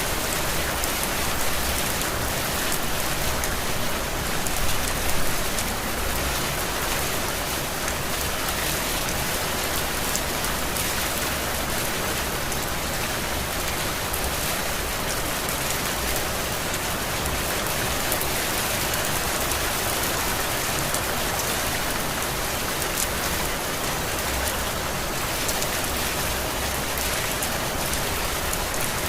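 Heavy rain falling steadily, a dense even hiss of drops on surfaces, swelling slightly for a moment about five seconds in.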